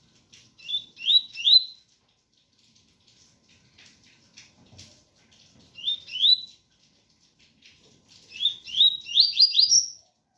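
Double-collared seedeater (coleiro) singing its 'tui-tui' song: three phrases of quick, rising whistled notes, the last the longest and loudest.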